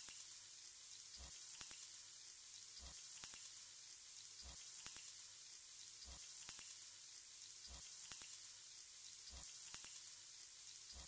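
Marinated chicken pieces frying in hot oil with chopped red onions in a pot: a steady, faint sizzle as the pieces are laid in. A soft tick recurs about every second and a half.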